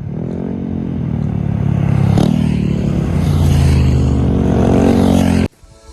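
Vehicle engine accelerating, its pitch rising, dipping briefly about two seconds in, then climbing again before cutting off abruptly near the end.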